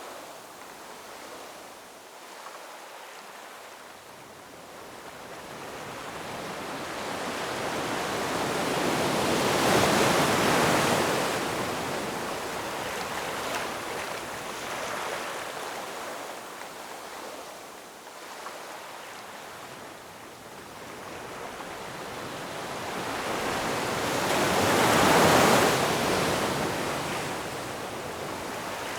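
Ocean surf: waves rolling in and washing up on the shore, two big swells building and crashing about ten seconds and again about twenty-five seconds in, with a softer wash between them.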